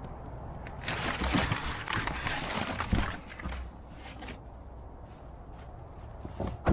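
Packing material rustling and crinkling for a few seconds with a couple of knocks, as the parts of an exhaust kit are pulled from their box. Scattered clicks follow, then one sharp knock near the end.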